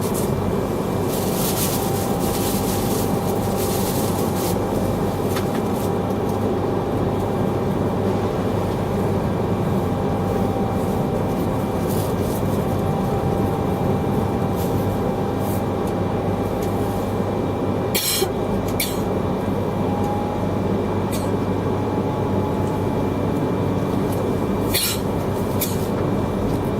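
Inside an Akita Shinkansen Komachi train running along the line: a steady rumble of wheels on rail and the running gear, with a faint steady whine. A few sharp clicks come through, most noticeably about two-thirds of the way in and again near the end.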